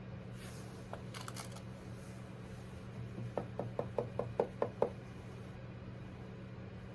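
A quick run of about eight light knocks, about five a second, growing louder toward the end, after a couple of faint clicks, over a steady low hum.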